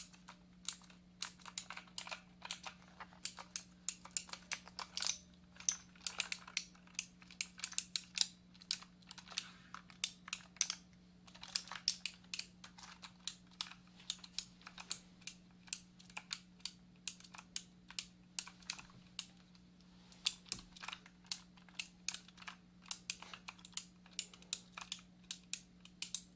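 Computer keyboard being typed on: irregular keystroke clicks, several a second, with a short pause about two-thirds of the way through. A faint steady hum lies underneath.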